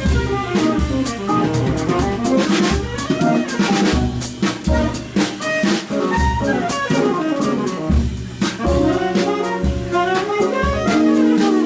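A jazz trio of tenor saxophone, guitar and drum kit playing live, with a fast-moving line of notes over a steady drum and cymbal pulse.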